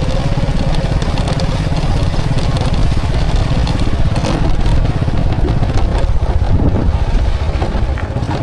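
Motorcycle engine running steadily under way, heard close up, with a few brief knocks or rattles about halfway through.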